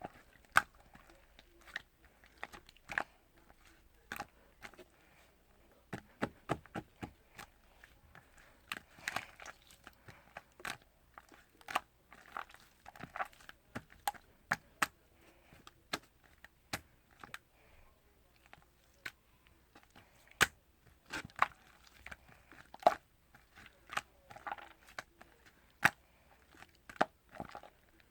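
Close-up eating sounds of coffee ice cream: irregular sharp clicks and short crunchy, wet mouth and chewing noises, with no talking.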